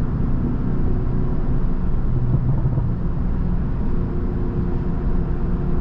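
Tuned BMW 330i's turbocharged four-cylinder engine running at a steady cruise under light throttle, heard from inside the cabin as a low, even drone mixed with road noise.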